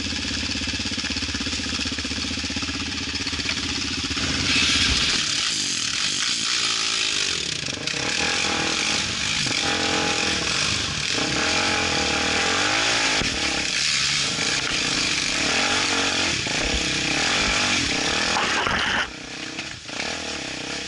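Off-road motorcycle engine idling steadily, then revved hard again and again from about four seconds in, its pitch rising and falling, before easing off near the end.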